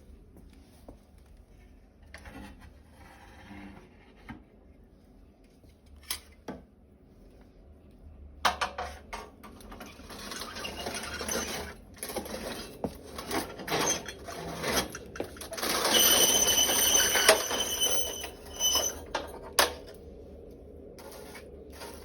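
Metal scraping and clinking of a tool working hot coals in a stove's firebox, starting about eight seconds in after a few isolated clicks. It turns busier, with a high metallic ringing squeal in the last few seconds of the activity.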